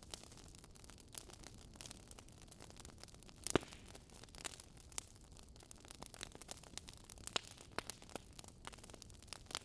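Wood fire crackling, with irregular sharp pops and one louder pop about three and a half seconds in.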